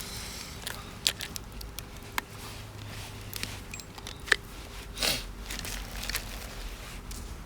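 Scattered clicks, taps and light knocks of small camp gear being handled, with a brief rustle about five seconds in.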